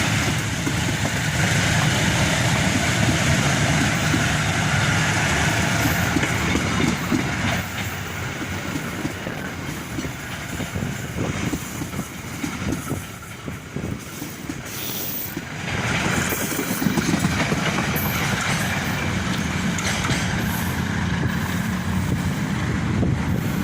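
Train running along the rails, its wheels and cars making a steady rumbling clatter. The sound eases off in the middle and grows louder again about two-thirds of the way through.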